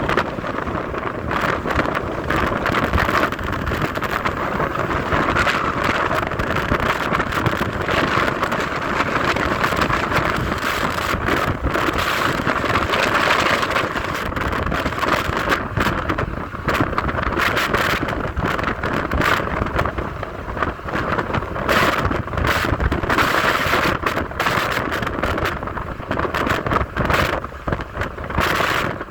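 Wind rushing and buffeting over the microphone of a moving car, over steady road noise, with frequent sharp crackling gusts.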